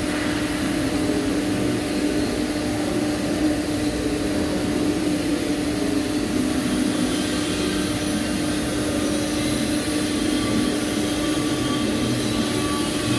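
Steady machine hum with a constant low tone and an even hiss over it, unchanging throughout.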